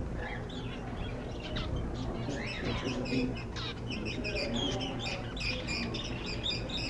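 Many small birds chirping and twittering at once in quick, overlapping calls, growing busiest in the second half.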